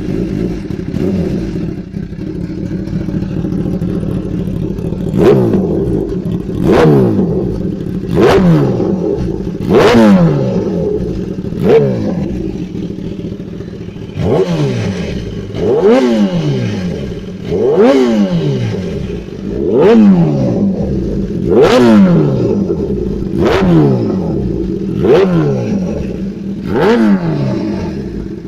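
Kawasaki ZX10R's inline-four engine, breathing through an aftermarket SC-Project exhaust, idling and then blipped hard about a dozen times, each rev rising quickly and falling back to idle, every second and a half to two seconds.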